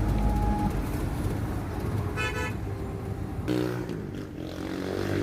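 Road traffic with a brief car horn toot about two seconds in, and another short honk or engine note around three and a half seconds in.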